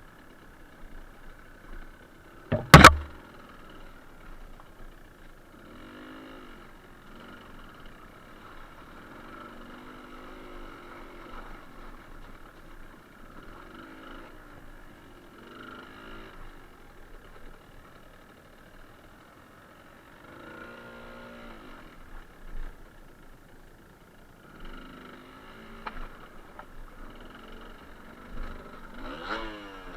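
Suzuki TS125R single-cylinder two-stroke engine running as the bike is ridden, its revs rising and falling again and again. A single sharp knock about three seconds in is the loudest sound.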